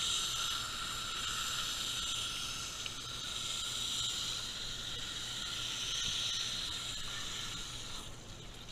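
Garden hose spray nozzle hissing steadily as the water jet washes the air-conditioner condenser coil; the spray cuts off shortly before the end.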